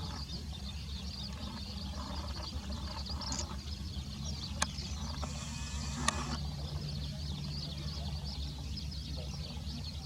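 Outdoor ambience on a phone microphone: a steady low wind rumble under a dense chatter of distant bird calls, with two sharp clicks about four and a half and six seconds in.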